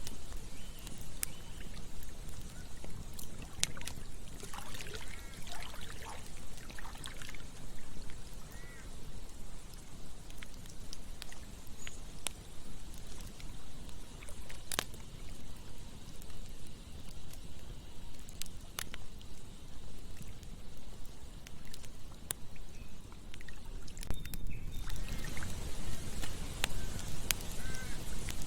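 Campfire crackling: scattered sharp pops and snaps over a steady rushing hiss of flames and running water, with a few short chirps. About 25 seconds in, the hiss grows brighter and louder.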